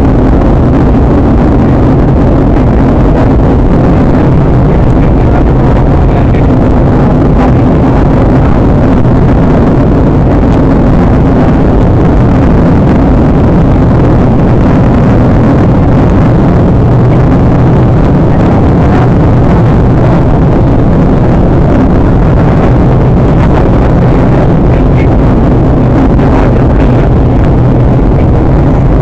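Steady engine and air noise of a Boeing 737-800 airliner in flight, heard inside the passenger cabin, with a deep hum under a constant rush.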